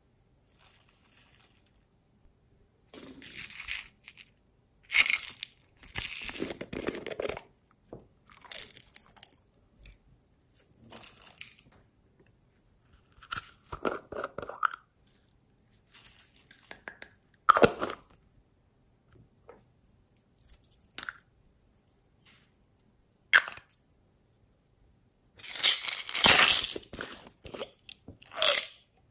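Crunchy slime being squeezed and kneaded by hand, giving irregular bursts of crackling and crunching with short pauses between them.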